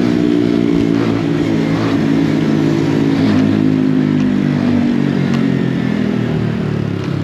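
Mini bike's small motorcycle engine running under way, its pitch easing down and back up slightly with the throttle.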